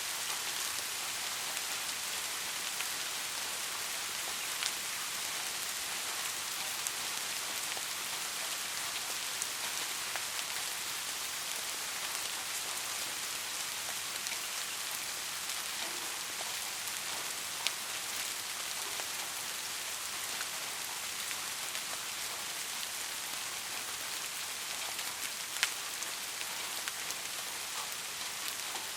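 Steady rain falling, a continuous hiss with scattered sharper drop ticks, a few a little louder than the rest.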